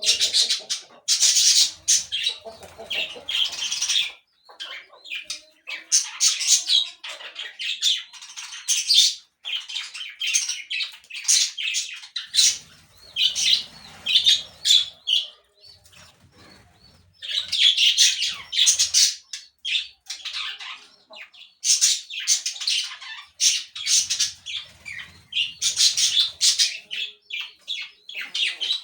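Birds chirping in dense runs of rapid high calls, broken by short pauses.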